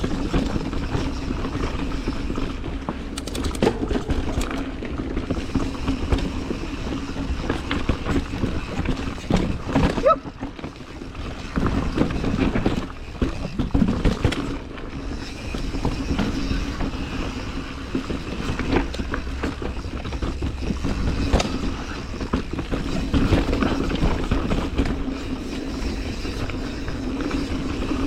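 Mountain bike riding down a dirt trail: steady tyre and drivetrain noise with low rumble, the chain and frame rattling, and sharp clicks and knocks from bumps and impacts throughout.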